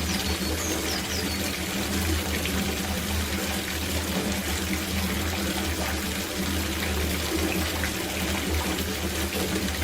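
Running water pouring into an outdoor copper bathtub as it fills: a steady, even rush of water. A few short bird chirps come in right at the start.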